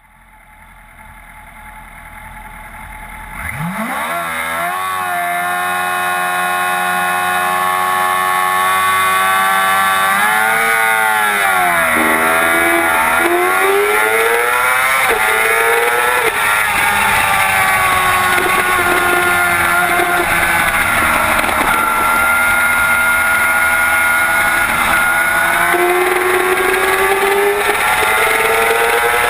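2007 Yamaha YZF-R6 motorcycle's inline-four engine running at high revs. Its note sweeps up about three and a half seconds in and holds, then dips and climbs in pitch several times before running on with slow rises and falls.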